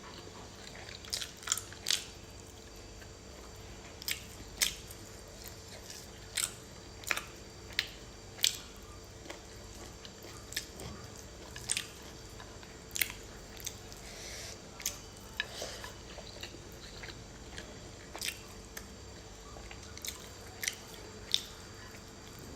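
Close-up chewing and biting of fried pork liver, with sharp wet mouth clicks and smacks coming irregularly, about one a second.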